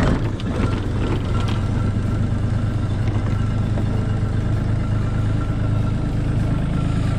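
Hitachi 35U mini excavator's diesel engine idling steadily while it warms up.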